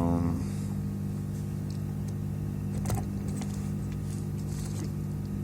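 A steady low hum made of several fixed tones, with a short pitched tone that ends just after the start and a sharp click about three seconds in.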